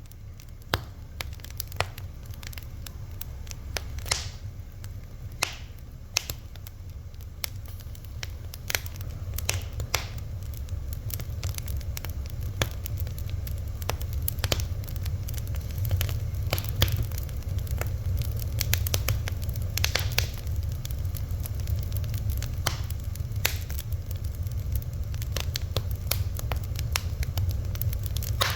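Fire crackling, with irregular sharp pops and snaps over a steady low rumble of flame.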